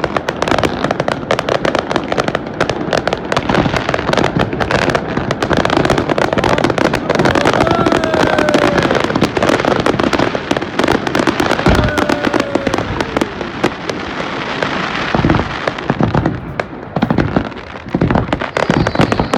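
Fireworks display: a dense, continuous crackling of many small bursts, with a few deeper booms about twelve and fifteen seconds in and some short falling whistles around the middle.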